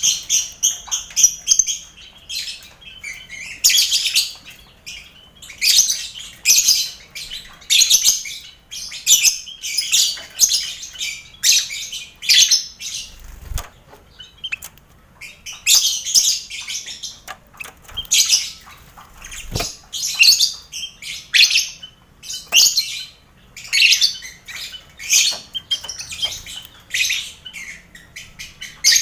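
Lovebirds in a colony aviary with finches, chattering and chirping in dense, rapid high-pitched bursts, with a couple of brief low thumps.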